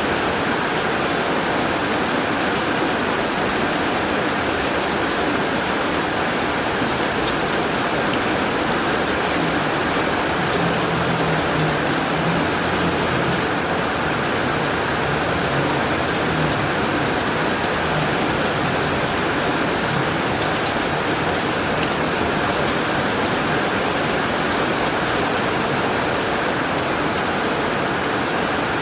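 Heavy rain drumming steadily on a tin roof, a dense patter of drops with sharper ticks scattered through it. A faint low rumble runs underneath for several seconds from about ten seconds in.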